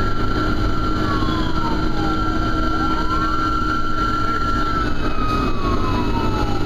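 Fire engine siren wailing, its pitch sliding slowly down and back up about every four seconds, with a second siren tone held steady, over the fire truck's engine running.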